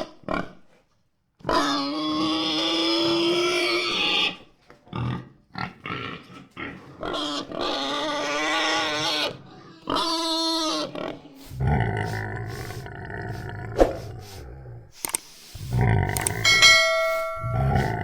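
Domestic pigs squealing in three long, pitched cries, then grunting low and rough through the last few seconds. A brief clear tone sounds near the end.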